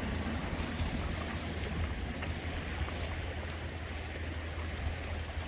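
Sea water washing and lapping steadily, with a constant low rumble underneath.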